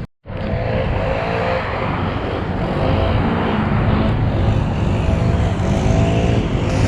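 A car engine running steadily with low rumble and road or running noise, with no break through the stretch.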